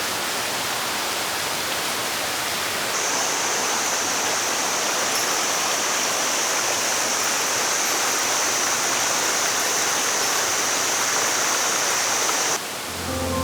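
Steady rush of water from a small waterfall and mountain stream, even and continuous. About three seconds in, a cut brings in a steady high-pitched tone over the rush, and music starts near the end.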